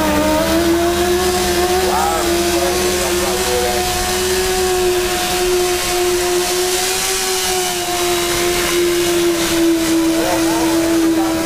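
Stunt motorcycle's engine held at steady high revs while the bike spins round in continuous circles, its pitch barely changing and dropping slightly near the end.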